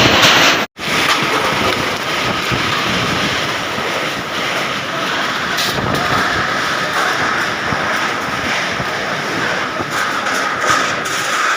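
Storm wind blowing hard over the microphone, a loud continuous rushing roar, with a brief total dropout just under a second in.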